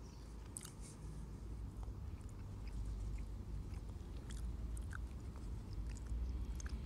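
A person chewing a mouthful of blanched cleavers (goosegrass), tough and stalky enough to need a long chew, with scattered small clicks from the mouth over a low steady rumble.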